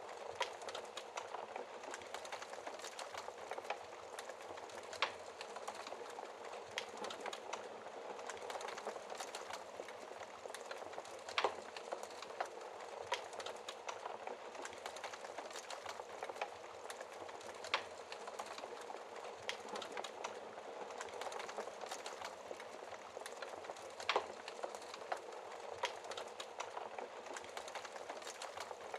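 Log fire crackling, with sharp irregular pops every few seconds over a steady hiss of rain.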